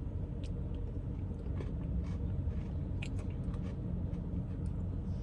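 Chewing a mouthful of soft-serve Blizzard with Oreo cookie pieces: faint, irregular little clicks and squelches over a steady low rumble.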